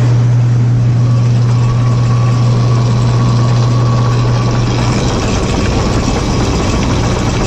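Farm feed-mixing machinery and bunk feeder conveyor running as haylage and silage feed out, a loud steady mechanical noise with a strong low hum. The hum drops away about five seconds in, and a faint steady whine runs through it from about a second in.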